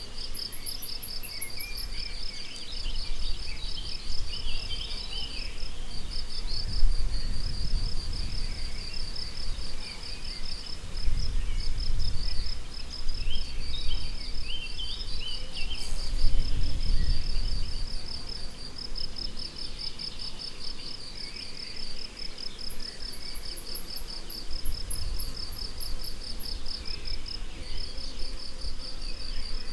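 Meadow crickets chirping in a steady run of rapid pulses, with scattered snatches of birdsong. A short high trill sounds at the start and again after about 23 seconds, and a low rumble swells up a few times.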